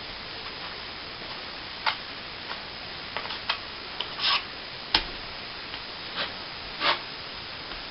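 Plastering trowel working cornice cement onto a plasterboard ceiling patch: irregular short clicks and taps with a few brief scrapes.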